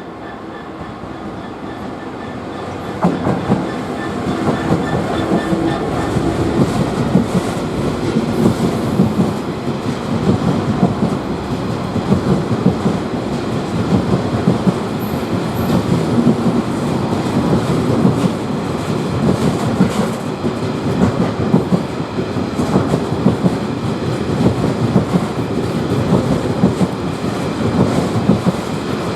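A train passing close by, its wheels clattering over the rail joints. The sound builds over the first few seconds as it approaches, then holds as a long run of wagons goes past.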